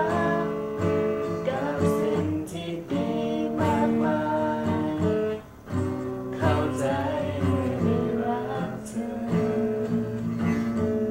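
Song music led by a strummed acoustic guitar, playing on with no lyrics after the last sung line.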